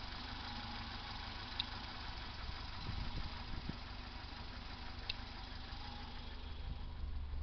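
Warm BMW E21 316's four-cylinder M10 engine idling steadily, a low even rumble with a light hiss. Two brief sharp ticks stand out, about a second and a half in and again about five seconds in.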